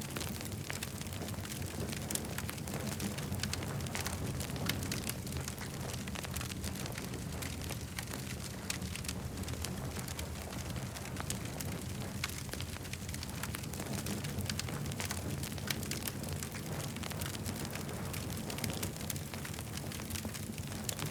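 Campfire crackling: a constant scatter of sharp pops and snaps over a steady low rumble.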